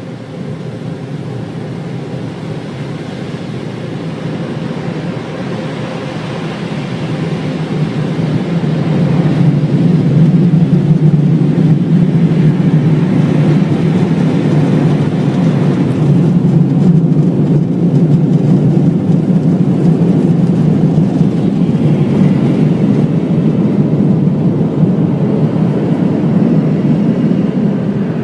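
Automatic car wash machinery running: a loud, steady rushing noise that builds over the first ten seconds and then holds.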